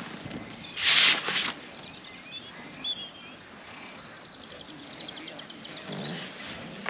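A short, loud rustle about a second in, then a small songbird chirping and giving a quick, even trill over an outdoor background.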